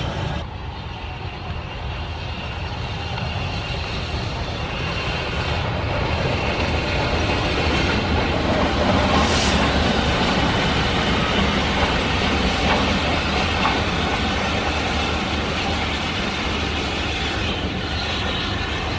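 Heritage railway train running along the track: a steady rumble and rail noise that grows louder toward the middle, with a brief high hiss about nine seconds in.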